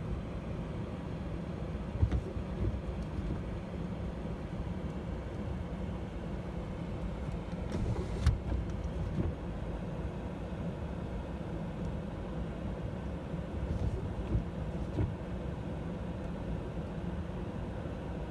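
Car idling: a steady low rumble, with a few faint knocks about two and eight seconds in.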